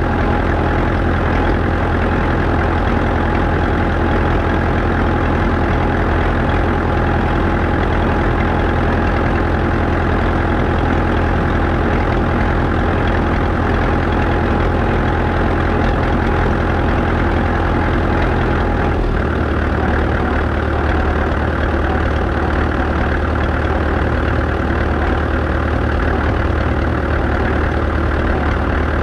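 Diesel engine of a 1947 McCormick ODS-6 orchard tractor running steadily, heard from the tractor it drives. About two-thirds of the way through, the engine note drops to a lower, slower beat and holds there.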